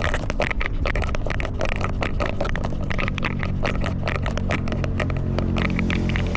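Rapid, irregular scraping and crackling from a cat's collar-mounted camera rubbing and jostling as the cat moves, over a steady low rumble.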